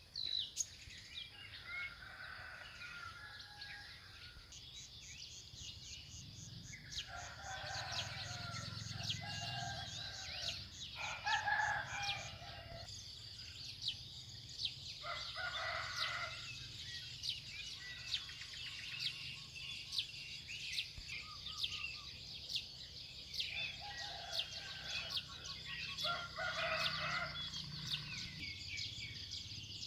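Roosters crowing several times, with small birds chirping throughout.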